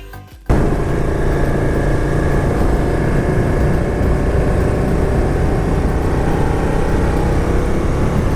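Music fades out, then about half a second in there is a sudden cut to a motorcycle on the move: steady engine noise mixed with wind and road noise.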